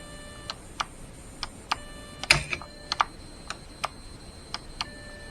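Plastic clicks from the buttons of a Huina 1580 RC excavator's handheld remote being pressed one after another, with a steady electric motor whine from the excavator that switches on and off with the presses.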